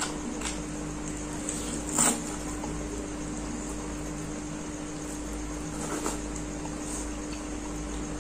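Soft chewing and mouth sounds of someone eating spicy instant noodles with fried egg, with a short sharp click or smack about two seconds in and fainter ones later, over a steady low hum.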